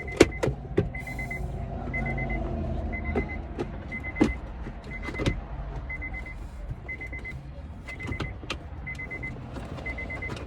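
Plastic clicks and knocks as center console pocket parts are pushed and snapped into their locks. Behind them a short high beep repeats about once every 0.7 s.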